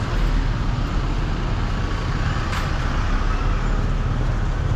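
Street traffic: motor vehicle engines running close by in a steady rumble, with a brief sharp hiss about two and a half seconds in.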